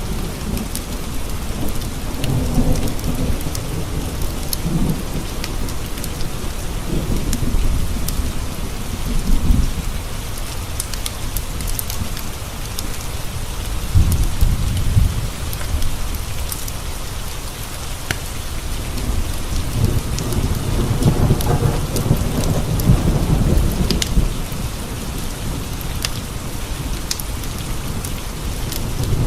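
Steady rain with low thunder rolling in several long rumbles, swelling and fading, over scattered faint sharp ticks.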